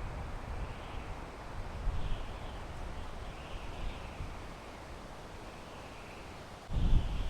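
Wind blowing through pine trees, a steady rushing hiss with low gusts buffeting the microphone. The strongest gust comes near the end.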